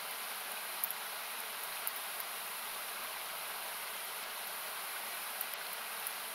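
Steady rushing of a nearby river or waterfall, thinned by equalising, with a few faint crackles from a wood campfire, one just under a second in, another near two seconds and one past five seconds.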